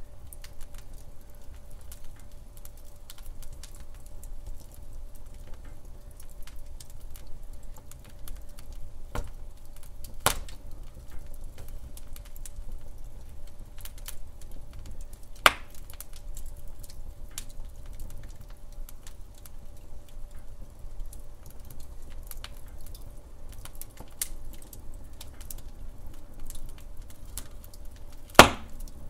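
Wood fire crackling in a fireplace: a steady low rumble of burning with frequent small ticks and a few sharp pops, the loudest near the end.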